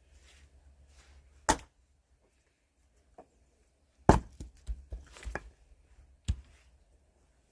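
Axe strikes splitting firewood: a sharp hit about one and a half seconds in, the loudest hit about four seconds in followed by several smaller knocks, and another hit near the end.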